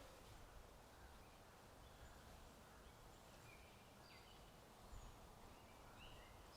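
Faint birdsong: short scattered chirps, some falling in pitch, over a quiet steady background hiss, with a soft tap about five seconds in.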